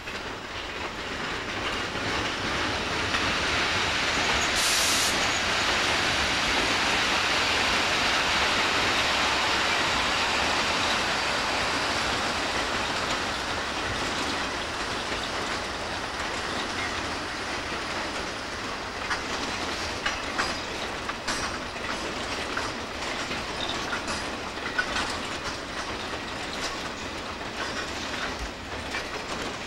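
Wam 80000 two-axle freight wagons rolling past during shunting, wheels rumbling and clattering over rail joints and points. The noise swells over the first few seconds and is loudest for several seconds before easing, with a brief hiss about five seconds in and sharp clicks later on.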